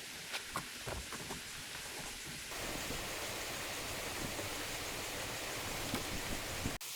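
Forest sounds in two parts. For about the first two and a half seconds there are scattered sharp crackles and snaps, like rustling leaves and twigs. Then it switches abruptly to a steady, even hiss like rain, which runs until another abrupt change near the end.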